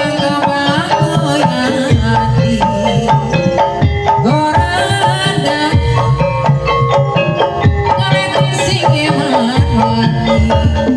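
Live kuda lumping accompaniment: hand drums play a busy rhythm under pitched melodic instruments, a dense, steady ensemble sound.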